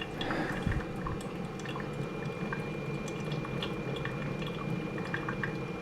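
Hamilton Beach FlexBrew coffee maker brewing into its carafe: coffee dripping and trickling with small ticks and drops over a steady hiss. A faint steady high whine runs along with it.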